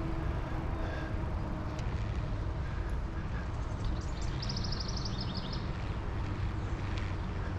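Wind rumbling on the microphone of a moving bicycle, with a bird giving a quick high trill about halfway through.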